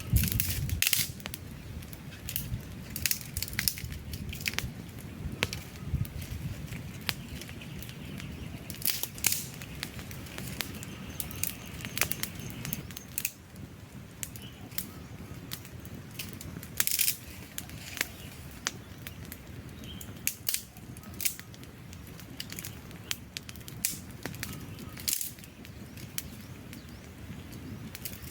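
Wood fire burning: a low rushing of flames with frequent sharp, irregular pops and crackles from the burning logs.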